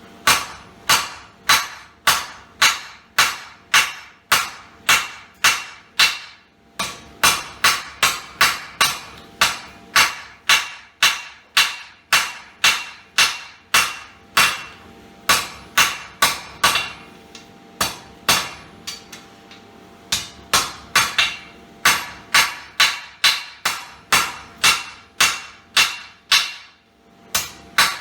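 Blacksmith's hand hammer striking hot square steel bar on an anvil, a steady run of about two to three ringing blows a second, broken by a few short pauses where the work is turned or reheated.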